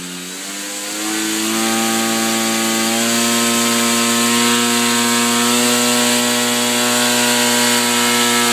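RC airplane motor spinning its propeller up, rising in pitch over the first second or two, then holding a steady high-throttle buzz.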